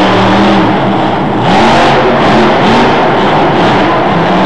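Monster truck engine revving: a steady drone, then from about a second and a half in, a quick run of four or five throttle blips that rise and fall in pitch for about two seconds before it settles back.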